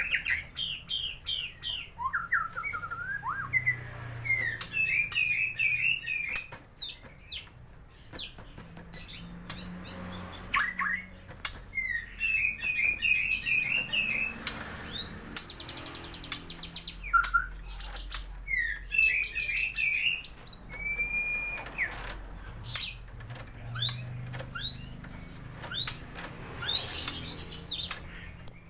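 White-rumped shama singing in short, varied whistled phrases packed with mimicked calls, with sharp clicks between them. A thin steady high tone runs under most of it.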